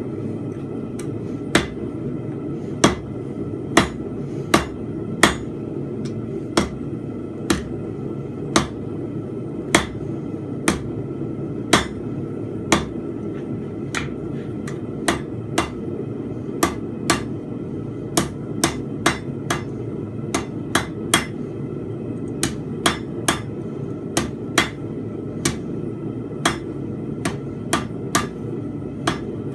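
Hand forging hammer striking a steel bar on an anvil while a fence peg is being forged: sharp, uneven blows, about one to two a second, coming quicker in the second half, over a steady low rumble.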